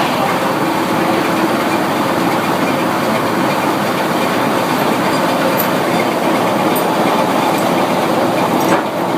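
Sawmill machinery running steadily, a loud continuous rumbling rattle with a faint steady hum and a few small ticks.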